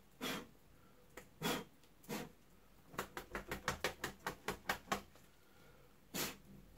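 Faint short knocks and clicks: a few separate ones, then a quick run of about a dozen at roughly five a second, and one more near the end.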